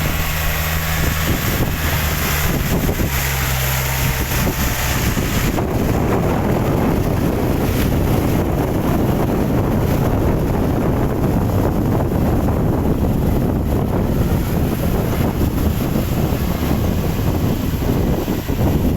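Tractor engine running steadily. About five seconds in, a loud, rough rushing noise takes over and drowns out the engine hum.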